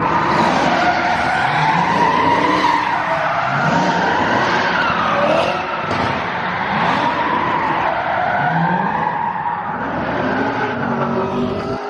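Twin-turbo Porsche 911 GT3 RS tires squealing through sustained skids, its pitch wavering up and down as the car spins donuts, with the engine running hard underneath.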